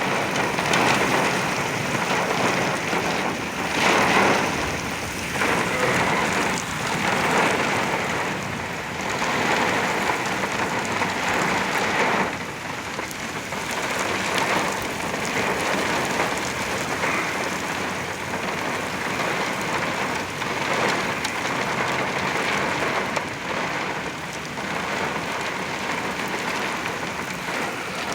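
Very heavy, wind-driven thunderstorm rain pounding on a truck, a steady roar that swells and eases with the gusts, strongest about four seconds in.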